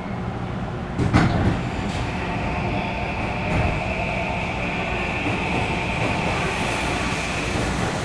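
Running sound of a Tobu electric commuter train, heard from inside the car. There is a single knock about a second in, then a steady high whine that holds over the running noise from about two seconds on.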